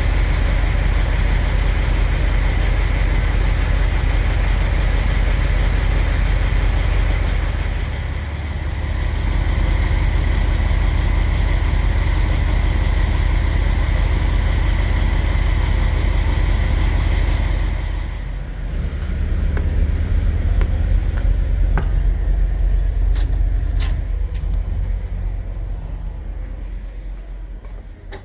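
Semi truck running down the road: a steady low engine rumble under road and wind noise. About two-thirds of the way through, the hiss drops away and the engine rumble carries on, with a few sharp clicks near the end.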